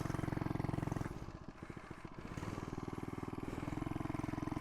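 FRP GMB100 mini bike's 99cc four-stroke engine running under throttle with a fast, even firing pulse. It eases off about a second in and picks back up from about two and a half seconds.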